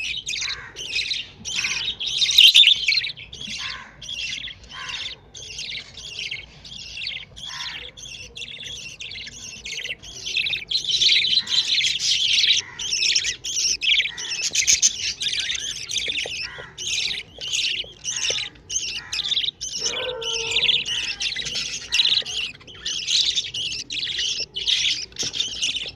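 Budgerigar chicks in the nest giving rapid, high-pitched begging calls, a few each second without a break, as they ask their mother for food.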